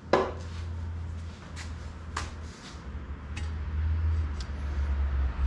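Handling noise from the workbench: a few sharp knocks and clicks, spread out over several seconds, over a steady low rumble.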